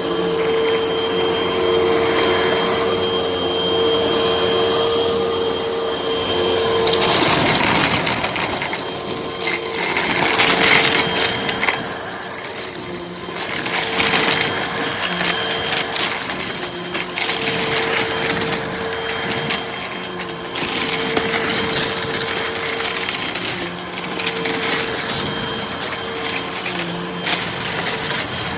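Hoover vacuum cleaner running with a steady motor hum, sucking up light crunchy debris. About seven seconds in, a dense crackling and rattling of debris going up the nozzle sets in and carries on unevenly.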